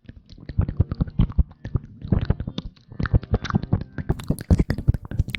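Close-miked ASMR rustling: a dense, irregular stream of crackles and soft taps, turning brighter and crisper about four seconds in.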